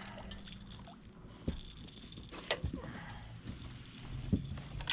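A few scattered knocks and light clinks of handling in a small boat, over a faint low steady hum.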